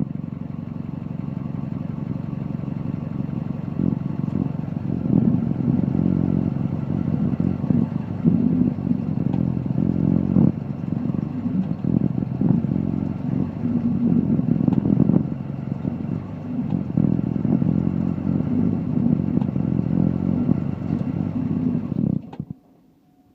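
2002 Duramax LB7 6.6-litre V8 turbodiesel running with a knocking, clicking clunk in it. The owner had taken it for a worn driveshaft slip yoke but is no longer sure of that. The sound stops abruptly near the end.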